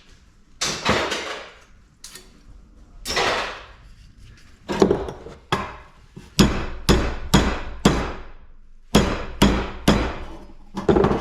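Hammer blows on scrap metal: a few spaced strikes, then a quicker run of about a dozen from around halfway, each with a short ringing tail.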